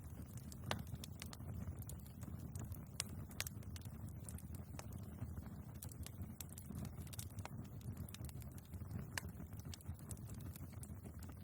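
Wood fire burning in a fireplace: a steady low rumble of the flames with irregular crackles and sharp pops from the logs, a few louder pops scattered through.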